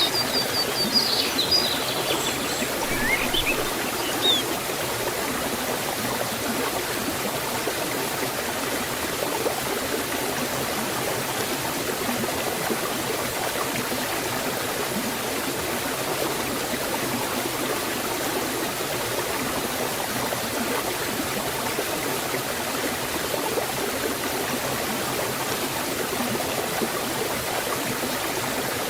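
Forest waterfall and stream water rushing steadily. A few short bird chirps come in over it during the first few seconds.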